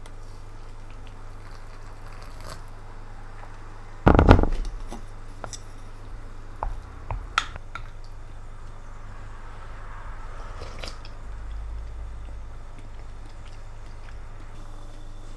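A loud thump about four seconds in, followed by a few sharp clicks and small knocks, over a steady low hum.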